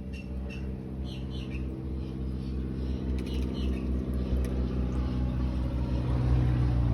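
A motor running steadily with a low hum that grows gradually louder, and small birds chirping over it in the first couple of seconds.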